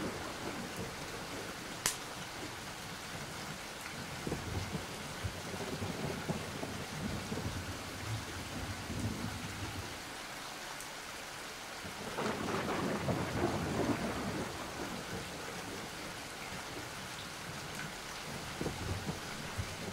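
Steady rain with thunder rumbling. A sharp crack comes about two seconds in, and the rumble swells for a couple of seconds a little past the middle.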